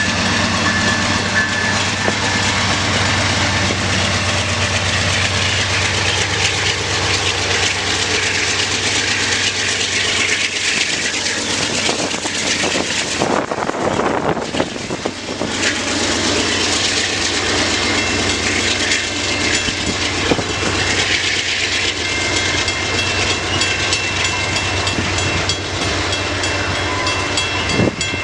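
CN manifest freight train rolling past at close range: the steady, loud run of the train's locomotives and freight cars moving on the rails.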